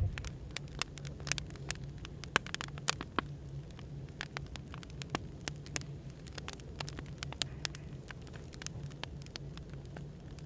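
Burning firewood crackling, with irregular sharp pops and snaps over a steady low hum of background noise.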